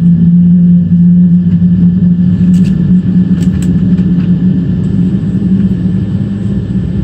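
Cabin noise inside a Boeing 777-200ER: a steady low hum over a rumble, with a few faint clicks about three seconds in.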